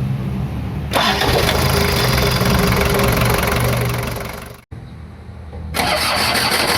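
Daihatsu Taft F70 engine being started and run, testing a starter just fitted with a new bendix drive. A loud mechanical noise with a steady tone comes in suddenly about a second in. It cuts off abruptly about two-thirds through, then returns after a quieter moment.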